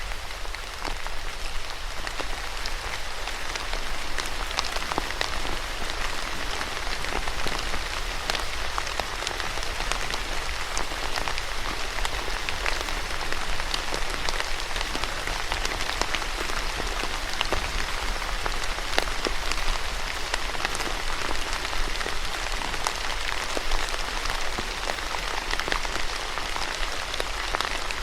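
Steady rain falling on a hard surface, a continuous hiss with many individual drops clicking and spattering through it.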